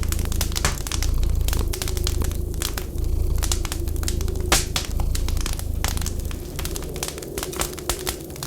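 Wood fire crackling, with irregular sharp pops and snaps, one louder pop about halfway. Underneath runs a low rumble that swells and dips about once a second and fades near the end.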